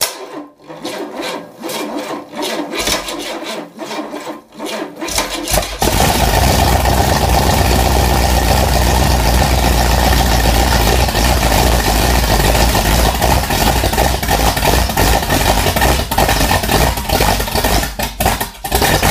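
Pontiac Firebird donor 5-litre V8, bare on an engine crane, cranked over by its starter in even pulses for about six seconds. It then catches on its first start and runs loudly and steadily, turns uneven near the end and shuts off.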